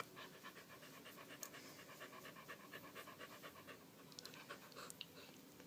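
A frightened beagle panting rapidly and evenly in stress. A few faint ticks follow near the end.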